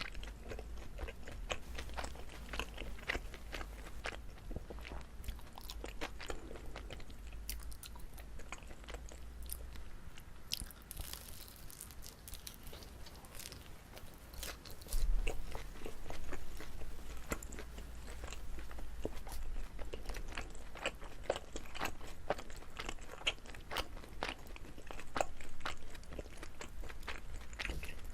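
Chewing of chewy rice cake filled with gondre greens: a steady run of many small mouth clicks, with a brief low bump about halfway through.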